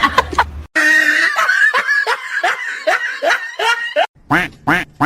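A person laughing in a quick run of short, repeated "ha" sounds, broken by brief silent cuts about three-quarters of a second in and again about four seconds in.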